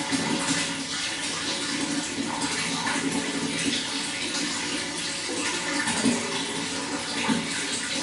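Running water flowing and splashing steadily, with small irregular gurgles.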